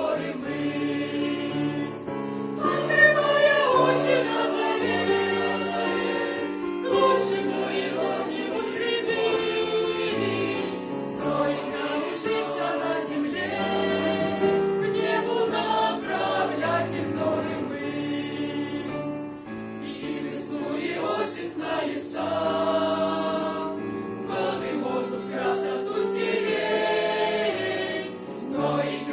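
Church choir singing a Christian song in several voices, with sustained, smoothly joined notes throughout.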